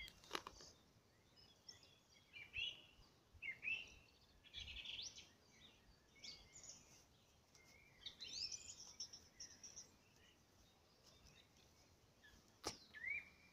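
Faint songbirds chirping and singing in short, scattered phrases of high whistled notes, some rising and some falling, over a quiet outdoor background.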